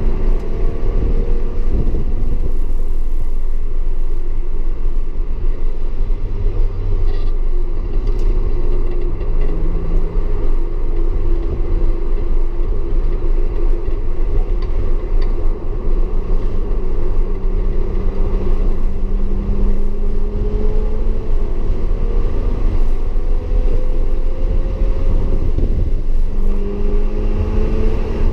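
Audi S4 engine being driven hard on a race track, with a deep steady rumble and engine pitch that climbs slowly and drops back several times as the revs rise and the gears change.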